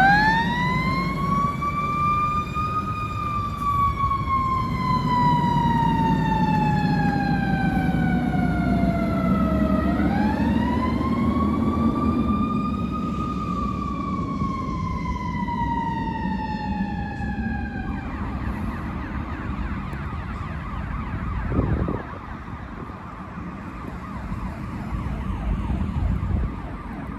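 Fire engine siren wailing in two slow cycles, each rising over a few seconds and then gliding slowly down, over the low rumble of the truck. The wail cuts off about 18 seconds in, leaving a rougher, steadier sound and a brief thump a few seconds later.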